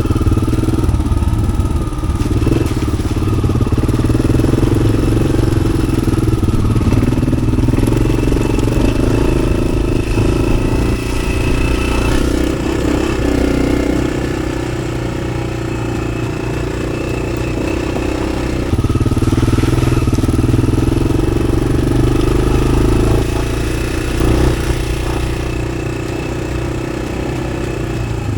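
1993 Yamaha XT600's single-cylinder four-stroke engine running through an aftermarket Arrow exhaust, getting louder and easing off several times as the throttle changes.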